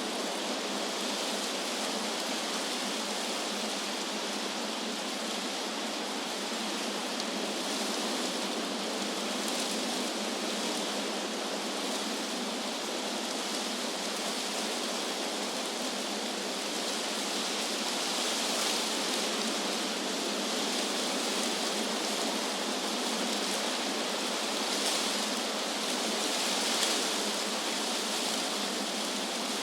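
Wind blowing through trees, a steady rushing of leaves with a few gentle gusts swelling in the hiss in the second half.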